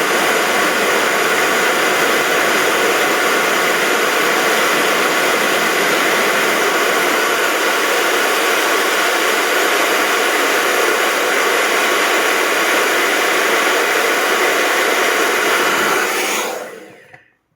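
Hot-air tool blowing steadily, used to desolder a choke from the circuit board, then switched off near the end so that the rush dies away over about a second.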